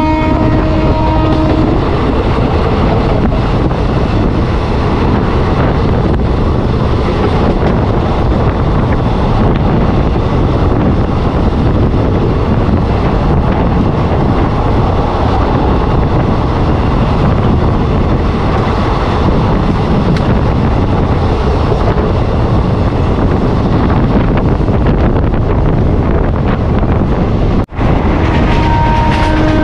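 Express train running at speed: a loud, steady rushing noise of wheels and rails, with wind buffeting the microphone. The locomotive's horn sounds into the first second or two and again near the end.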